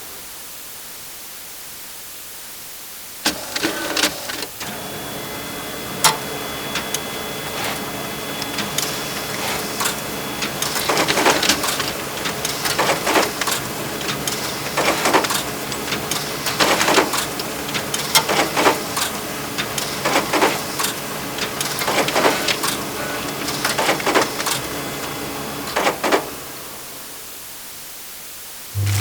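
An office machine, of the printer kind, starts with clicks and runs with a steady mechanical whine. From about ten seconds in, a noisy rhythmic pass repeats every second or two, and the machine stops shortly before the end.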